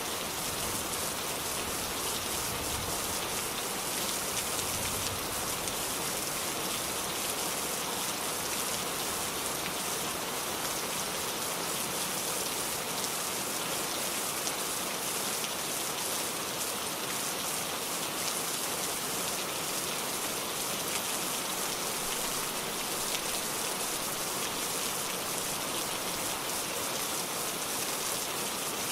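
Steady rain falling and pattering on a surface, an even hiss with fine drop impacts throughout.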